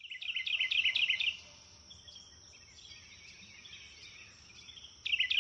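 A bird singing a fast, rapid string of high chirps, about seven a second: a loud phrase at the start, softer chirping in between, and another loud phrase near the end, over a thin steady high-pitched tone.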